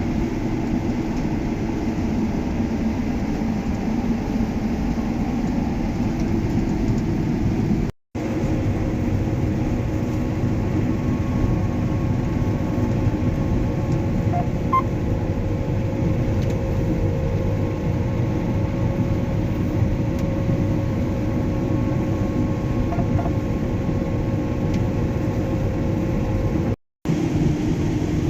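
John Deere S680 combine running steadily under load while harvesting soybeans: a continuous machine drone with a few steady tones in it. The sound cuts out completely for a moment twice, about eight seconds in and near the end.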